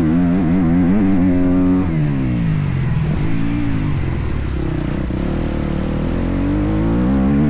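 A motocross bike's engine, revving hard in quick throttle bursts. About two seconds in it drops in pitch as the throttle is rolled off, then runs lower and steadier before revving up again near the end.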